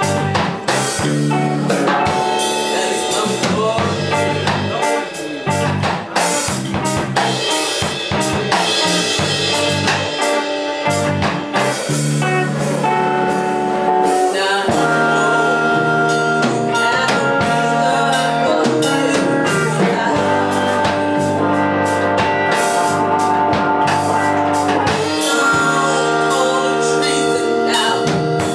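A blues band playing live: drum kit and bass, the first half busy with drum hits, then long held notes over the beat from about halfway through.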